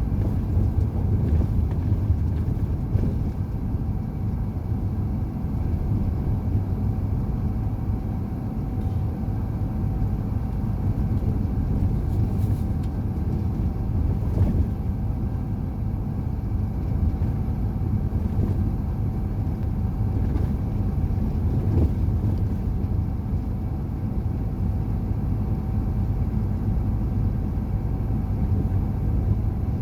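Truck engine and road noise while driving at a steady pace: a constant low rumble with a faint steady whine above it.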